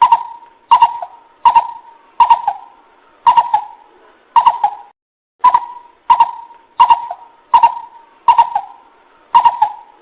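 Coucal (bubut) call played as a bird lure: a run of short, loud hooting notes, roughly one every three quarters of a second, with a brief pause about five seconds in.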